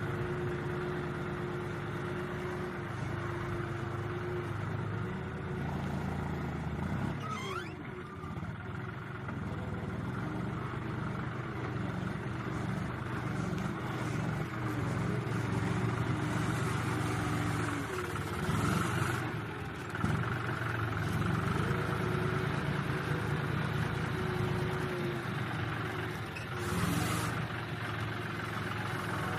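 Diesel tractor engine running under varying load while its front loader works, the engine note sagging and recovering several times. Three short rushing noises break through along the way.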